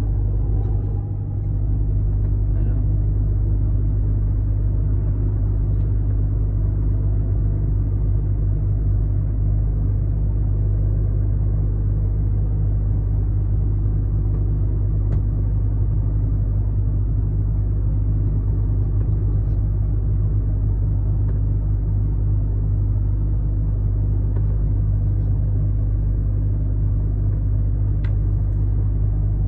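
Truck engine and road rumble while driving: a steady, low drone.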